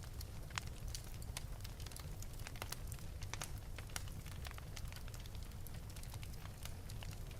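Fire burning in an open fireplace, crackling with frequent, irregular sharp pops over a low, steady rumble.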